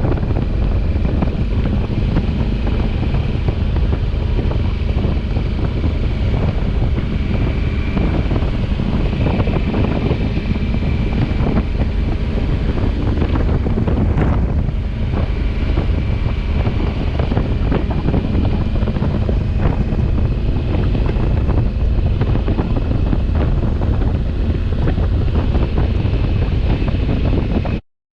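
Steady wind rush on the microphone from riding a Honda Africa Twin motorcycle at speed, with the bike running underneath. It cuts off abruptly near the end.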